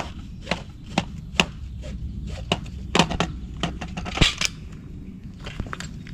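Irregular knocks, clicks and light clatter of camping gear being handled and packed away, a dozen or so sharp hits with the loudest about three and four seconds in, over a steady low hum.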